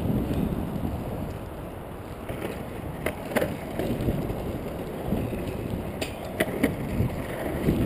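Skateboard wheels rolling on pavement, a steady low rumble with a handful of sharp clicks about three seconds in and again around six seconds in.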